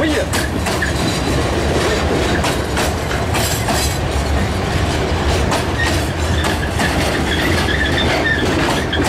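Freight train's hopper wagons rolling past close by: a steady rumble of steel wheels on rail with rapid clicks as the wheels cross rail joints. About six seconds in, a faint high metallic squeal joins it.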